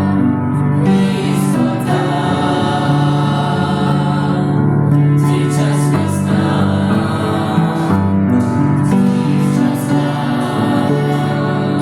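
A choir singing a hymn over sustained instrumental accompaniment.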